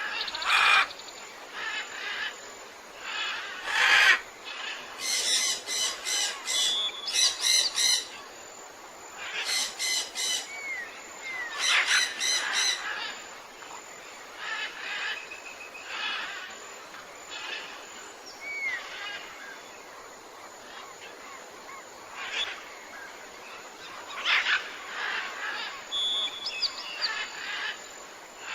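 Several birds calling in a tropical forest: runs of quick, harsh repeated notes, several clustered in the first half, mixed with short whistled slurs, over a steady background hiss.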